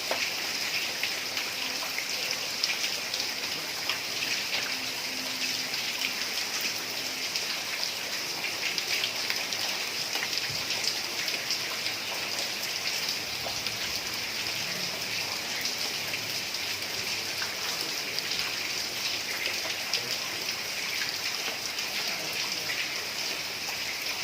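Heavy rain pouring steadily onto a tiled roof, a dense even hiss speckled with the ticks of individual drops striking the tiles.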